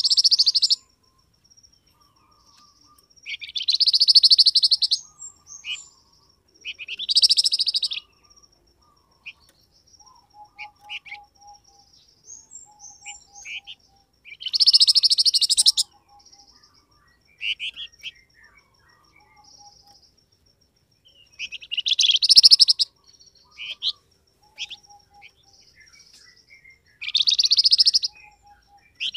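Recorded call of the songbird known in Indonesia as 'flamboyan': six loud, harsh chattering bursts of about a second each, a few seconds apart, with softer high trills and short whistled notes between them.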